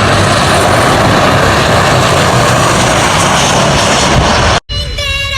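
Loud, steady roar of a passenger plane flying low overhead on its landing approach. About four and a half seconds in, it cuts off abruptly and music begins.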